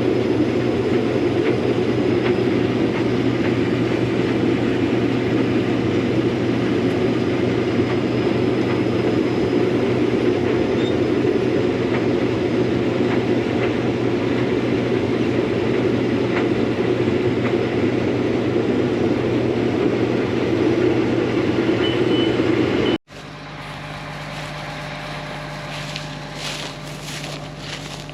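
Combine harvester running steadily, a loud, dense mechanical noise. About 23 seconds in it drops abruptly to a quieter, steady low engine hum with a few faint clicks.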